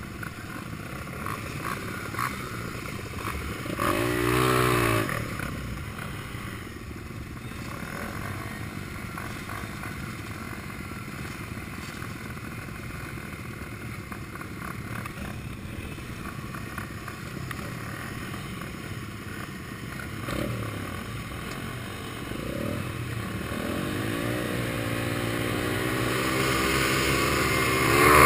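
Small single-cylinder four-stroke Honda XR100 mini bike engines running, with one engine revving up and down about four seconds in. Over the last few seconds the engines rev higher and grow steadily louder.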